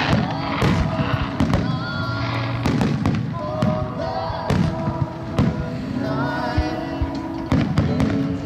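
Fireworks going off in a string of irregular sharp bangs over loud music with sustained notes.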